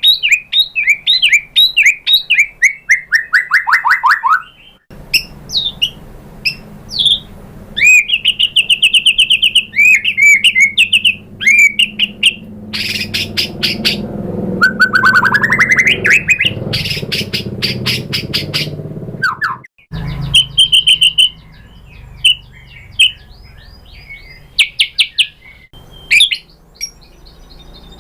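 White-rumped shama singing a varied, fast song of repeated whistled notes, clicking trills and falling and rising slurs, with hardly a pause. A low background hum cuts in and out abruptly twice.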